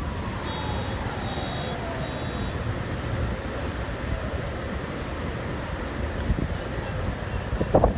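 Steady rush of wind and storm noise with low rumble on the microphone, while a passing vehicle's tone slowly falls in pitch.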